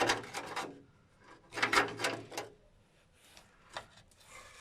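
Lada Vesta NG's anti-roll bar knocking against the car body, two short bursts of clattering knocks near the start and about halfway through. The bar has shifted to one side and touches the body: the cause of the suspension knocking on washboard roads.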